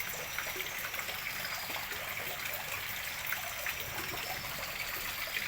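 Water running steadily into a fish pond as it is refilled, a continuous trickling splash.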